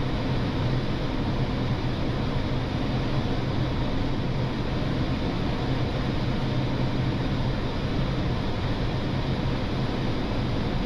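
Steady flight-deck noise of an Airbus A320neo: a continuous low hum with a rush of air, unchanging throughout.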